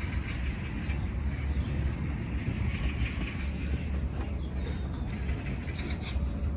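Steady low rumble of city traffic, with a few brief high descending squeaks about four seconds in.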